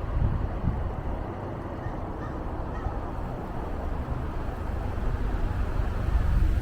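Wind blowing over the microphone, a steady rumbling gust noise that swells toward the end.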